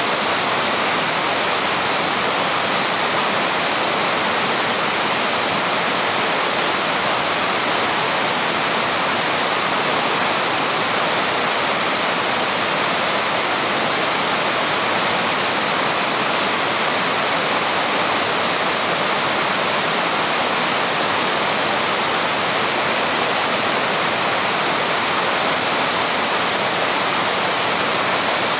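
Small waterfall pouring over rocks: a loud, steady rush of falling water that does not change.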